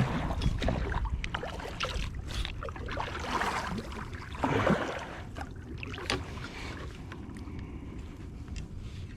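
Handling noise on a fishing kayak: scattered knocks and clicks with rustling, over a low rumble.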